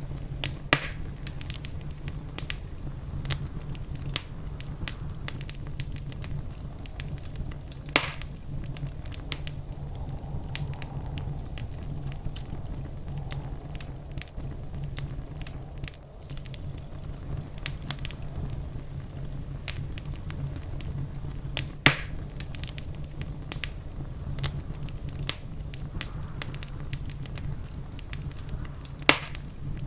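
Wood fire crackling in a fireplace: a steady low rumble of burning with many small snaps and a few louder pops.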